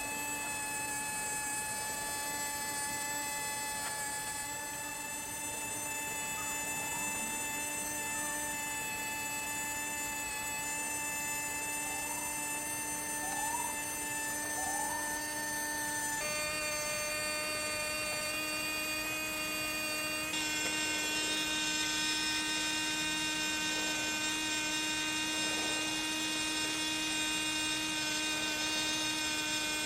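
Steady electric hum of a running machine, made of several held tones. The tones shift in pitch about halfway through, and a high hiss joins about two-thirds of the way through.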